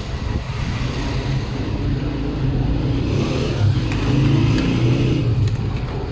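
Steady low engine rumble, like passing road traffic, growing a little louder about four seconds in.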